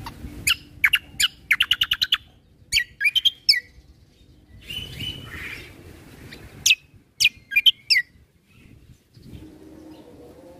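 Kecial kombo songbird singing in loud, rapid chirping phrases: sharp downward-slurred notes and a short fast trill, in two bursts separated by a pause of about three seconds.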